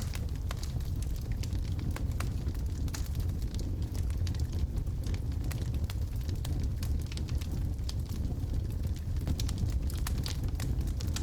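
Wood logs burning in a fireplace: a steady low rumble of the fire with frequent sharp crackles and pops.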